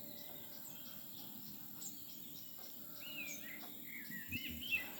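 Birds chirping, a quick run of short twittering calls in the second half, over faint steady outdoor background noise with a thin, evenly repeating high ticking.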